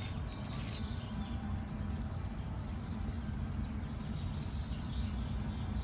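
Steady low outdoor rumble with a few faint bird chirps, near the start and again near the end.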